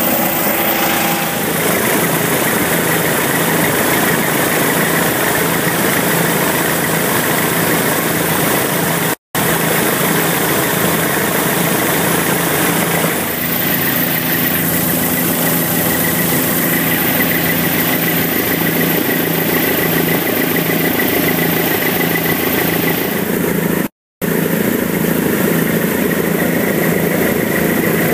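Helicopter engine and rotor noise, loud and steady, with a high whine over it. It cuts out briefly twice.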